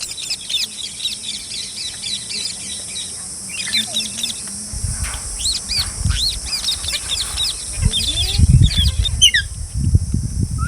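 Birds chirping, many short high calls overlapping in quick succession over a steady high hiss. From about halfway a low rumble, like wind or handling on the microphone, comes in under the calls.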